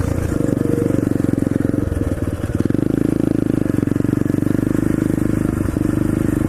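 SSR 125cc pit bike's four-stroke single-cylinder engine running while riding, easing off briefly about two seconds in, then holding a steady, slightly higher pitch.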